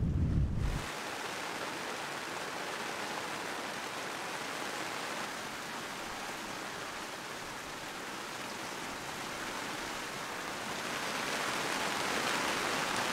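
Steady hiss of rain in a squall at sea, growing louder near the end as heavier rain comes in. Wind buffets the microphone with a low rumble for the first second.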